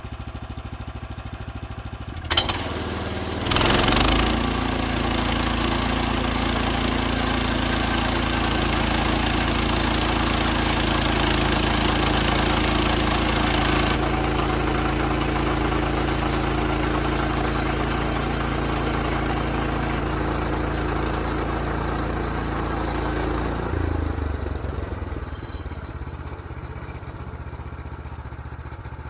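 Small petrol engine of a Woodlander HM126 portable bandsaw mill idling, then throttled up a few seconds in after a sharp click. It runs steadily under load for about twenty seconds while the band blade cuts through a log, then drops back to idle.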